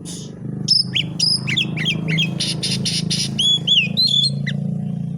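Oriental magpie-robin (kacer) singing a varied song of whistled notes that slide up and down, with a fast run of harsh repeated notes in the middle. A steady low hum lies underneath.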